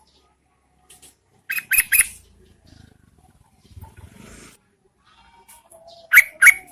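Yellow-vented bulbul calling: two quick bursts of three loud, sharp notes, one about a second and a half in and one near the end, with faint chatter between. These are female bulbul calls used as a lure to draw males to answer.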